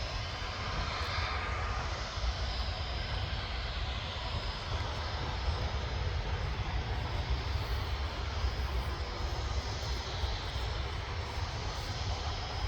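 Jet airliner engines running at a distance at the airport: a steady rushing noise with a low rumble underneath.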